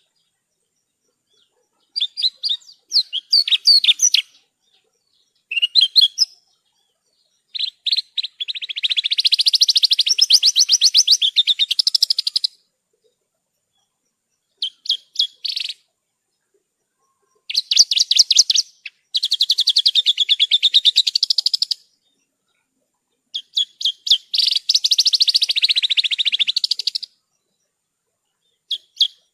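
Javan bush lark (branjangan) singing: bursts of rapid, high trilled phrases separated by short silences, seven of them, the longer ones lasting four to five seconds.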